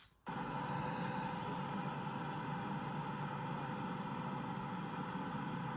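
Steady machine noise with a constant hum, starting just after a brief drop-out and going on unchanged.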